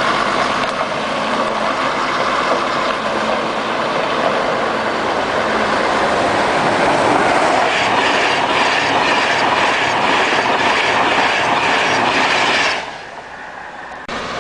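A train passing at speed with its wheels clattering over the rail joints. The noise falls away suddenly near the end.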